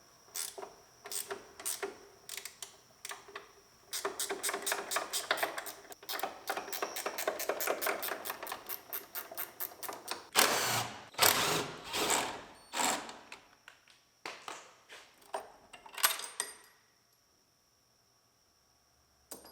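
Ratchet wrench clicking rapidly in runs as the car door's hinge bolts are unbolted, with a couple of louder noisy bursts about ten and twelve seconds in. The clicking stops near the end.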